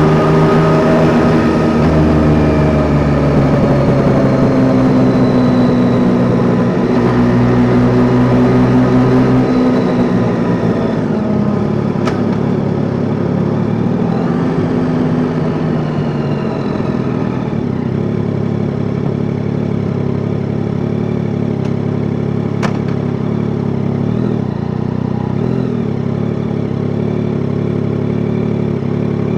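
Yamaha Tracer 9 GT's three-cylinder engine running on the road, its pitch rising and falling for about the first ten seconds, then settling to a steady idle.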